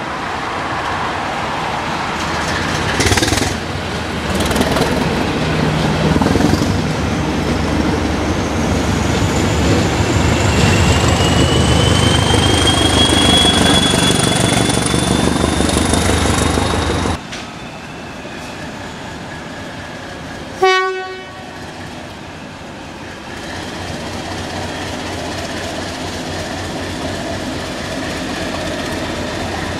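A train passing close by: a loud rumble with a few clicks and a slowly rising whine. It cuts off abruptly, and a short single horn toot sounds over a steadier, quieter rumble.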